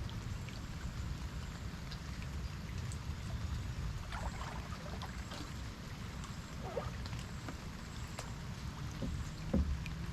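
Water dripping and lapping around a kayak in light rain: scattered small drips and plinks over a steady low rumble, with a soft knock near the end.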